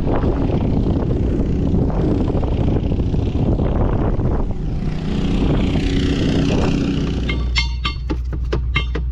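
Heavy construction machine's engine running steadily, with a quick series of ringing metallic clinks starting about seven and a half seconds in.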